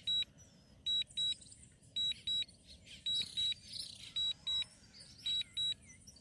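Drone remote controller's warning alert during return-to-home: pairs of short high-pitched beeps repeating about once a second.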